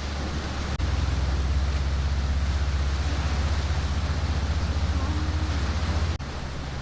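Strong wind buffeting the microphone: a heavy low rumble over a steady hiss. It gets louder abruptly about a second in and drops back abruptly near the end.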